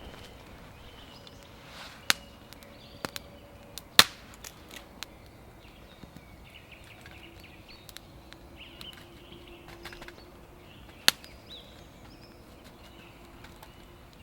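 Campfire crackling: a handful of sharp, scattered pops, the loudest about four seconds in, over a quiet background with faint high chirps.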